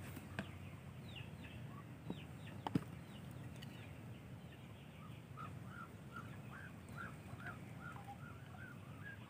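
Faint bird chirping: a run of short, evenly repeated chirps, about two or three a second, starting about halfway through, with a few quiet knocks in the first three seconds.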